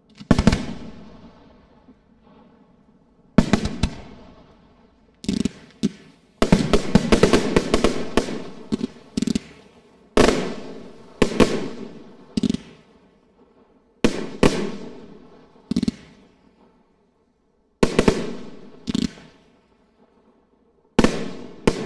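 Fireworks display: aerial shells going off in a string of sharp bangs, each trailing away in a long echo. A dense run of rapid crackling reports comes between about six and nine seconds in.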